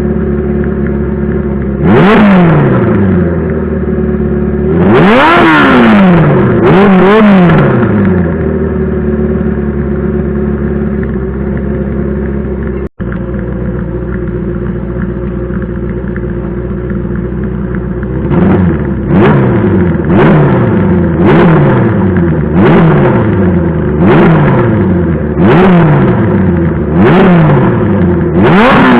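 Honda CB400F's air-cooled inline-four idling through a hand-bent short exhaust, with a few sharp throttle blips in the first several seconds. After a brief break in the sound it idles again, and from about two-thirds of the way in it is blipped in a steady rhythm, roughly once every second and a half.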